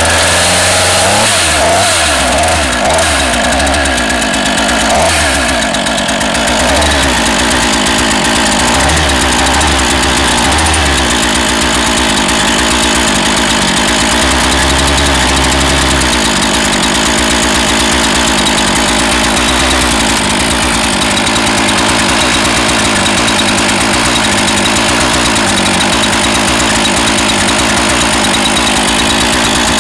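Two-stroke gasoline chainsaw engine running continuously on about half choke, with its idle screw just turned up half a turn. Its speed wavers through roughly the first half, then settles steadier.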